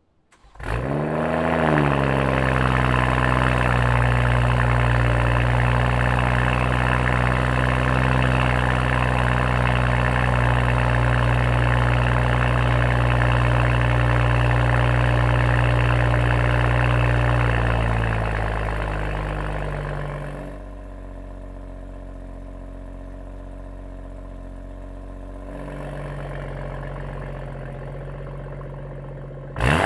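BMW 540i's B58 turbocharged inline-six starting up through a downpipe and custom valved exhaust with a sport resonator: a quick rising flare, then a fast, steady idle that settles lower about eighteen seconds in. About twenty seconds in the exhaust note drops sharply in volume, comes back partly about five seconds later, and a sharp rev begins right at the end.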